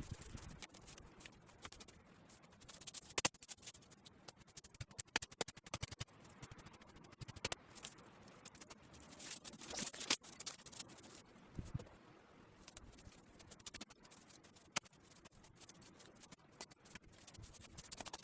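Irregular scratching, rustling and sharp clicks close to the microphone, with the loudest click about three seconds in.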